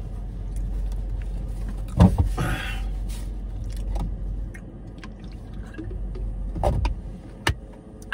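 A man chewing a mouthful of food inside a car, with a sharp knock about two seconds in followed by a brief rustle, and a few small clicks later on. A steady low hum from the car runs underneath.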